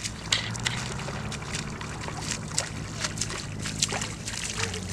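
River water splashing and sloshing in quick, irregular splashes, over a steady low hum.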